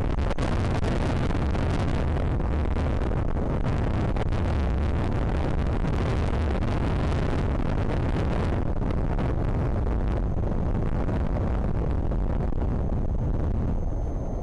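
Strong wind buffeting the microphone: a loud, continuous rumbling roar, heaviest in the low end, whose upper hiss eases a little about two-thirds of the way through.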